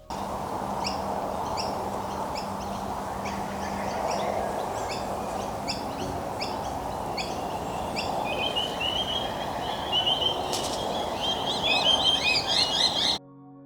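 Birds singing: a short chirp repeated roughly twice a second, joined after about eight seconds by a fast trill, then a busier burst of calls near the end, over a steady rushing background. It starts and cuts off abruptly.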